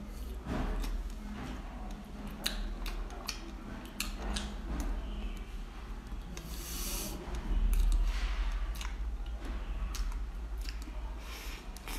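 Close-miked eating of a slice of Black Forest cake: chewing with many small sharp mouth clicks and crisp crackles. A brief hiss comes about six and a half seconds in, and a low bump just after is the loudest moment.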